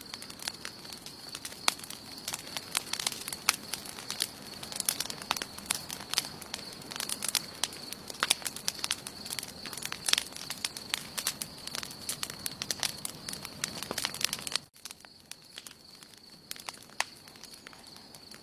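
Campfire of burning wood crackling, with frequent sharp pops over a faint steady high-pitched tone. About 15 seconds in, the sound drops abruptly and the tone stops; the crackling carries on sparser and quieter.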